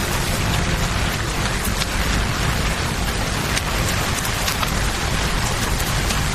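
Steady rain falling together with the continuous rush of a flowing river, with scattered small sharp pops from a wood campfire.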